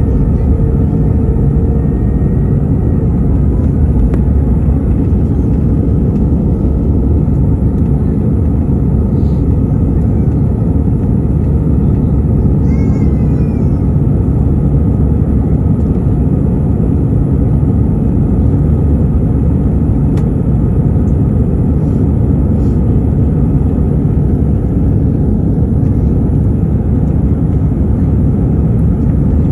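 Steady cabin noise of an Airbus A319 jet airliner in flight: a constant low rumble of engines and airflow.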